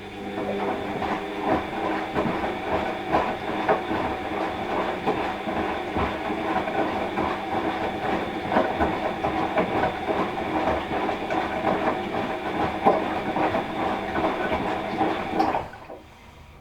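Washing machine drum turning, with a steady motor whine under a dense, irregular rattling clatter. It starts with a click just before and stops abruptly about fifteen seconds in.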